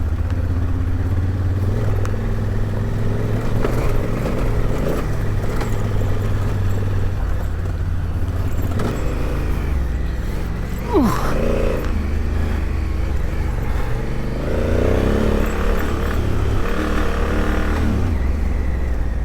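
Adventure motorcycle engine running at low revs on a rough dirt track, the throttle opening and closing, with a quick rev that drops away sharply about eleven seconds in.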